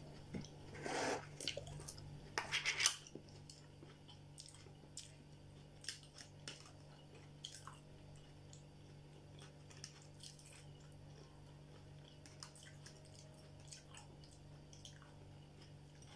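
A person chewing food, louder in the first three seconds, then quieter chewing with scattered small clicks of a fork against a dish.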